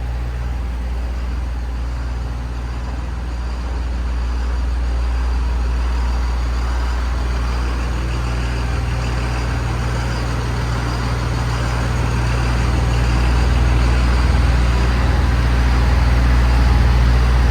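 Kohler generator set running steadily, a loud, even low hum with engine noise and no changes in speed.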